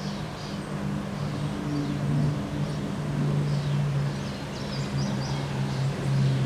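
Outdoor wind noise over a steady low mechanical hum, with faint short high chirps scattered through, clustered about five seconds in.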